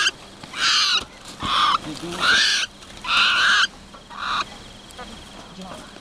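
A bird giving loud, harsh squawks, about one every 0.8 seconds, five in all, stopping about four and a half seconds in; a faint steady high insect tone carries on after.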